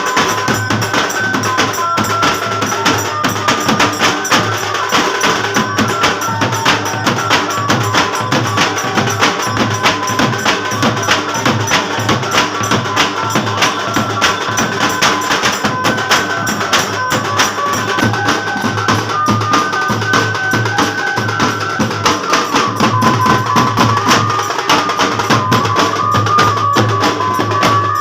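Banjo band music: an amplified Indian banjo playing a wandering melody over dense, fast drumming.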